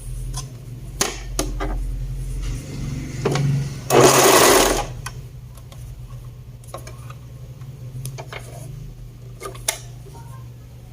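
Sewing machine stitching fast and steadily for about four seconds. A loud, short noisy burst follows, then quieter scattered clicks of handling.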